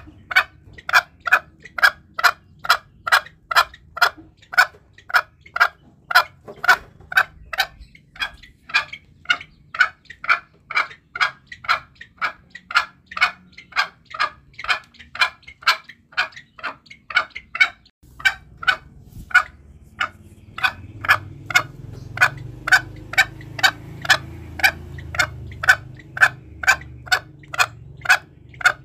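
Green junglefowl calling in a steady, evenly spaced run of short sharp clucking notes, about two a second, the kind of recording used as a lure call for hunting. The notes break off briefly about two-thirds through, then resume over a low background rumble.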